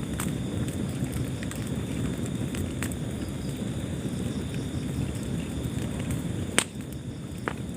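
Wood fire burning in a fireplace: a steady low rumble of flames with scattered crackles and sharp pops, the loudest pop a little before the end.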